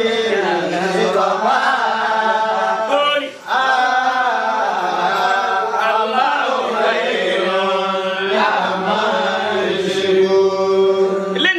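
Male voice chanting an Islamic prayer in long, drawn-out melodic phrases, with a short break about three seconds in.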